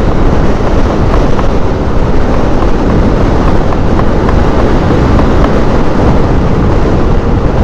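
Wind rushing over the microphone on a moving motorcycle at highway speed, a loud steady rumble with engine and road noise underneath.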